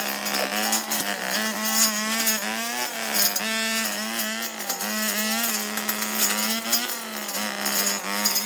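Small petrol engine running continuously, its pitch wavering up and down as the load changes.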